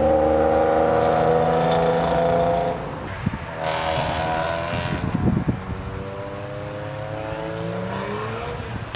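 A car engine running loud, then easing off to a quieter note, with its pitch rising again near the end as it revs up.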